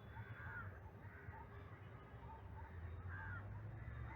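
Faint bird calls outdoors: a few short calls over about four seconds, over a low steady hum.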